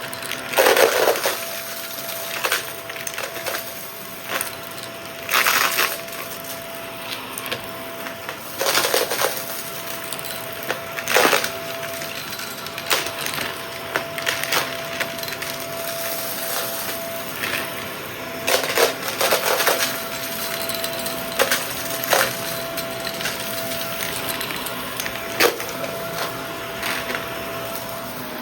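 Dry debris crunching and crackling in irregular bursts, over a faint steady hum.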